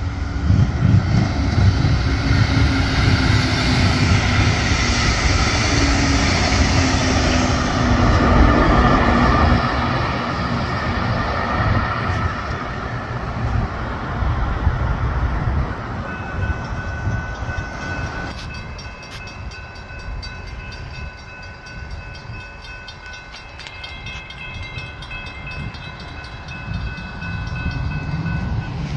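A Brightline passenger train passing a level crossing: a loud rumble with slowly falling tones that fades after about ten seconds. From about sixteen seconds in, the crossing's warning bell rings steadily with quick repeated strikes.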